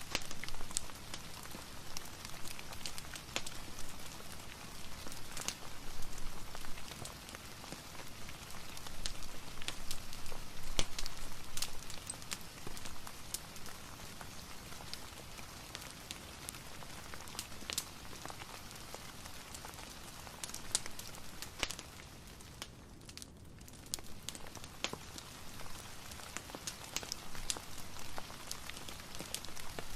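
Steady soft rain, with scattered sharp crackles and pops of a wood fire in a fireplace.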